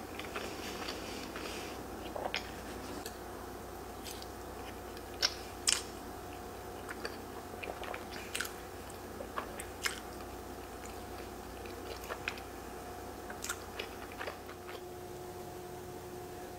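Close-up chewing and wet mouth sounds of a person eating creamy fettuccine alfredo: scattered short smacks and clicks over a faint steady hum.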